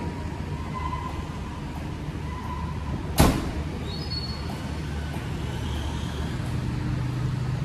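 Low, steady rumble of an idling vehicle engine, with one sharp knock about three seconds in.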